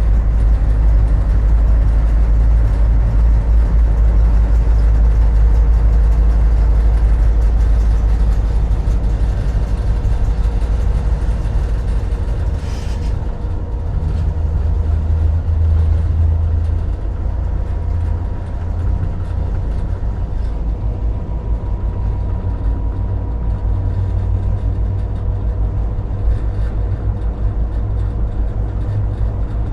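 EMD GP38-2 diesel-electric locomotive's 16-cylinder engine running steadily, heard from inside the cab, with a short hiss about 13 seconds in and the engine note shifting a little just after.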